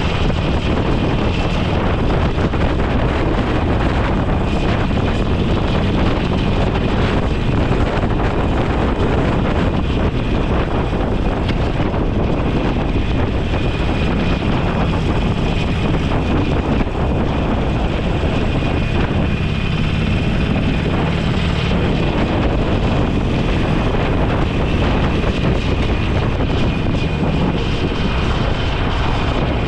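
Motorcycle cruising at a steady road speed, its engine a low hum under a constant rush of wind across the microphone.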